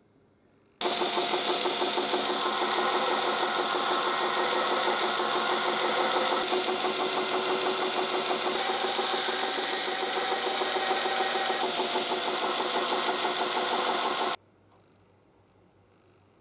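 A power tool running steadily at full speed, with a dense hiss and a fast even pulsing; it cuts in abruptly about a second in and stops abruptly near the end.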